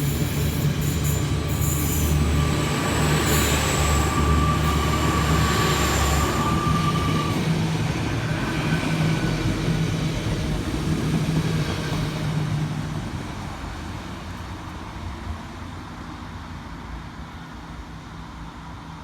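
Hull Trains Class 802 bi-mode train passing on diesel power, with engine drone and wheel noise and a steady high wheel squeal from about three to seven seconds in. The sound then fades steadily over the last several seconds as the train draws away.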